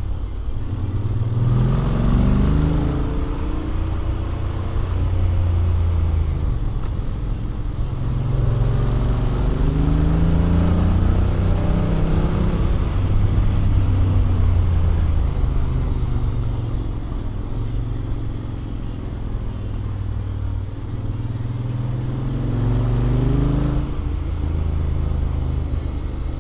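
Honda X-ADV 750's parallel-twin engine, on a stock exhaust with an Akrapovic header, pulling the bike along the road. Its pitch rises as it accelerates three times, near the start, about ten seconds in and near the end, and holds steady while cruising in between.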